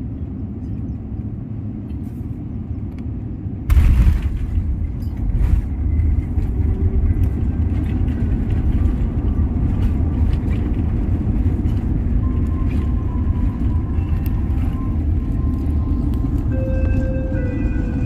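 Airliner cabin during landing: a steady rumble, then about four seconds in a sudden jolt as the wheels touch down, followed by a loud, steady low rumble of the rollout on the runway with scattered rattles and clicks.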